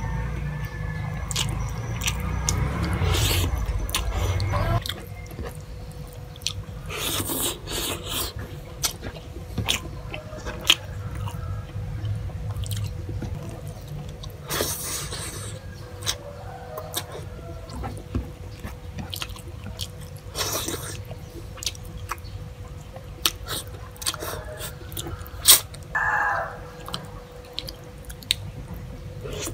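Close-miked mouth sounds of someone chewing rice and fish, with wet lip smacks and small clicks, over a faint steady hum.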